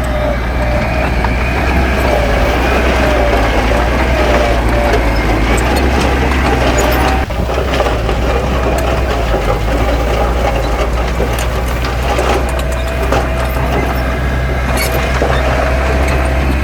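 Heavy diesel engine of earthmoving machinery running steadily under load, a low drone with a wavering higher whine over it, briefly dropping about seven seconds in.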